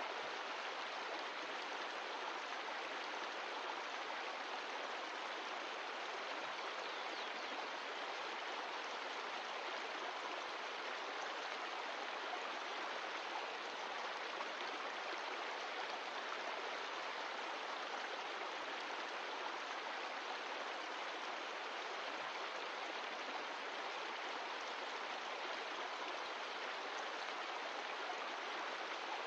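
Mountain stream of glacial meltwater rushing and splashing over rocks, a steady even flow.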